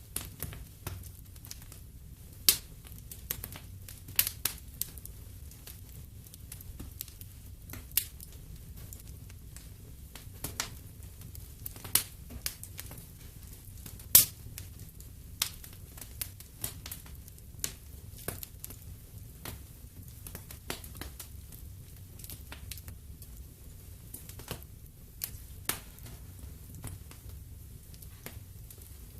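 Wood fire in a fireplace crackling, with irregular sharp pops scattered over a low steady rumble of flame.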